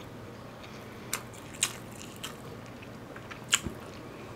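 Close-miked mouth sounds of someone eating: a few short, sharp, wet clicks from chewing, spaced irregularly against a quiet background.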